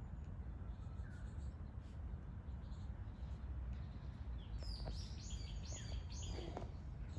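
A bird calling: a quick run of about four high notes in the second half, after one short chirp about a second in, over a steady low rumble.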